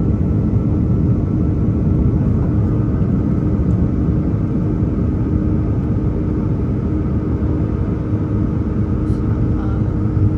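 Cabin noise of an Airbus A330-300 with Rolls-Royce Trent 700 engines climbing after takeoff: a steady low rumble with a few constant engine hums over it.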